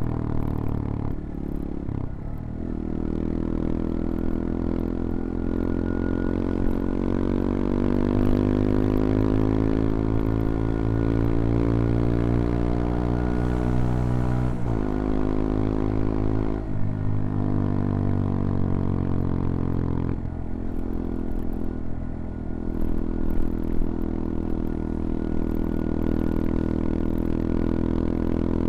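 CFMoto Papio XO-1 motorcycle engine under way, pulling with a steadily rising pitch. There are two sharp breaks in the note about halfway through, like gear changes. The engine then eases off and runs at a steadier, lower note.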